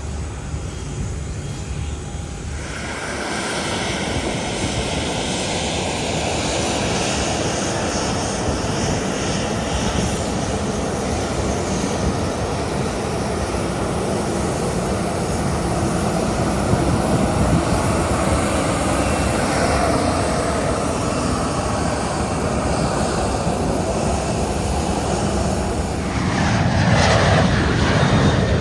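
Airliner engines running loud and steady, building up about three seconds in. The sound swells again near the end with a falling sweep in pitch as the aircraft passes.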